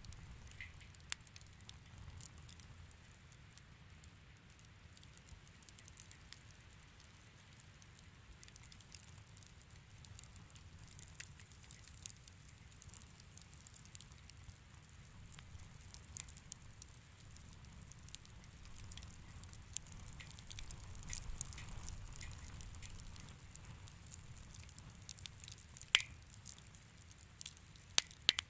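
Wood fire in a fireplace crackling: scattered sharp pops and snaps over a soft low rumble, with the loudest pop near the end.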